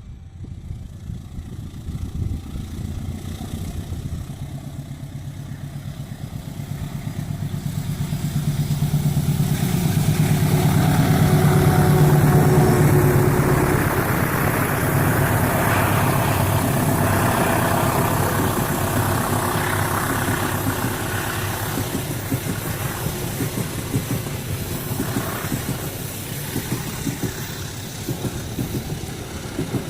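Diesel locomotive hauling a passenger train past: the engine's low drone builds to its loudest about twelve seconds in, then the coaches roll by with a rhythmic clatter of wheels, slowly fading.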